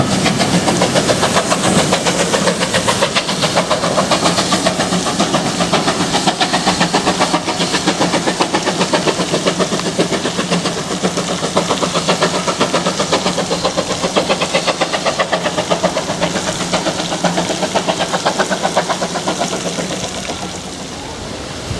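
Railway locomotive working, with a fast, even beat and a steady low drone, fading a little near the end.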